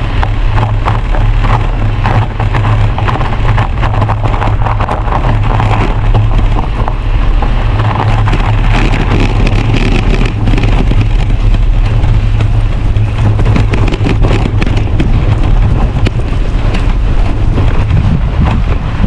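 Heavy wind buffeting on the microphone during a bicycle ride over snow-covered ice, with a dense crackling and crunching of tyres on the icy crust.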